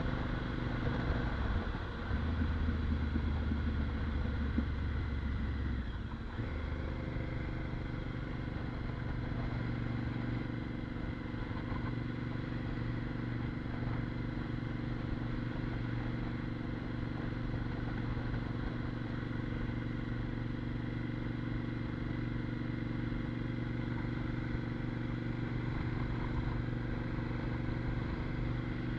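Motorcycle engine running through a Mivv titanium aftermarket exhaust with a bass-heavy note. A deeper, louder rumble in the first six seconds stops suddenly, and the engine then idles steadily.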